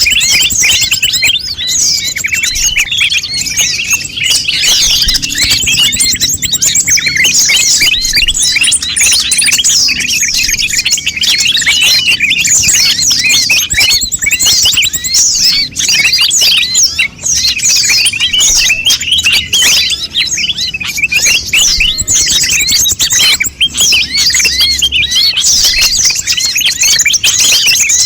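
Konin bird calling non-stop in a rapid, busy stream of high, quick chirps and twitters with no pauses, the kind of lure and tutor recording played to make caged konin birds sing.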